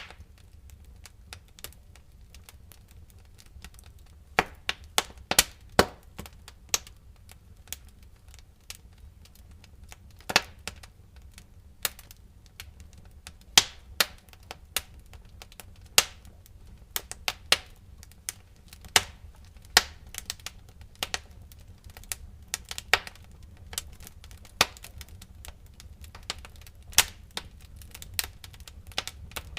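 Wood fire crackling in a fireplace: irregular sharp pops and snaps, some loud and some faint, over a low steady rumble of the flames.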